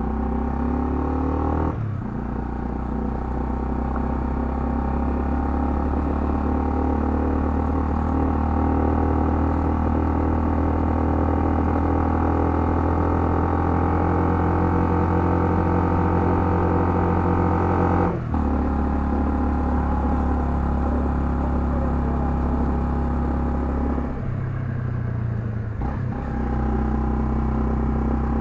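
Honda CL250 motorcycle engine running under way, rising in pitch as it pulls away at the start. It runs steadily at speed, with short breaks in the sound about two seconds in and around eighteen seconds, and a lower-pitched stretch near the end before it picks up again.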